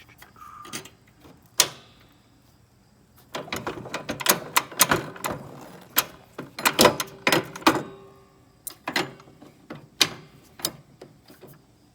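Hand tools tightening the snowblower's wheel shaft: a sharp click, then a dense run of rapid clicks and knocks from about three to eight seconds in, then a few single clicks.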